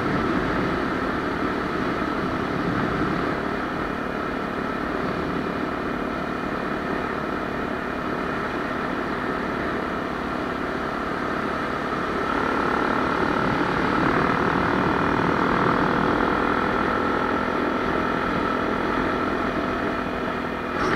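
Honda Tornado 250's single-cylinder four-stroke engine running steadily, growing somewhat louder about twelve seconds in.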